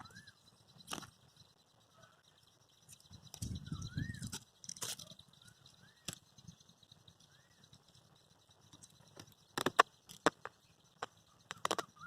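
Wagtail calling at its nest: soft, short chirps that rise and fall, spaced a second or two apart. A brief low rumble comes about four seconds in, and a cluster of sharp clicks near the end.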